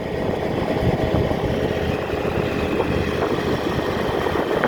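Tractor engine running steadily under way.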